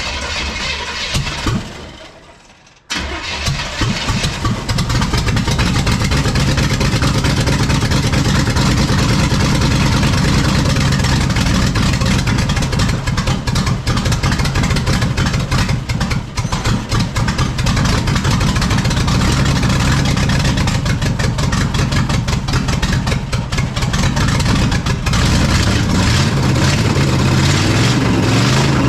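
Starter cranking a NASCAR-derived small-block V8 at length without it catching, after a brief pause about two seconds in. The fuel is not yet primed through the engine-driven mechanical fuel pump.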